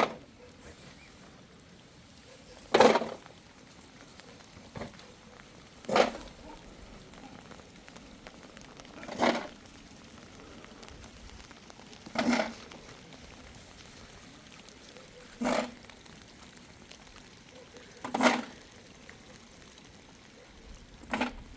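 A short, sudden knock repeated at a steady pace, about one every three seconds.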